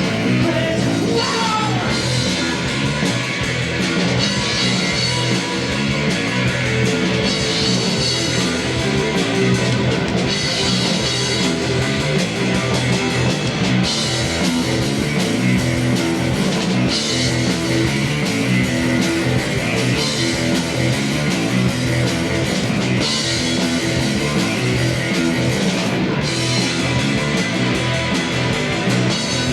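Live rock band, two electric guitars, electric bass and drums, playing an instrumental passage.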